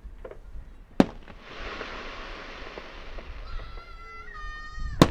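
Fireworks going off: a sharp bang about a second in, then a couple of seconds of crackling hiss, then a high whistle that dips slightly in pitch, and another loud bang near the end.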